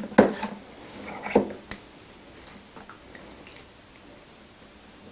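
Eating spicy braised seafood (haemul-jjim) close to the microphone: three sharp knocks in the first two seconds, then fainter wet clicks and squishes.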